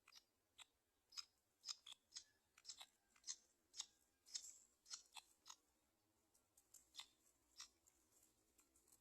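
Faint, irregular clicks and snaps, several a second and busiest in the first half, typical of a black-winged kite's beak tearing and pulling at flesh on its prey.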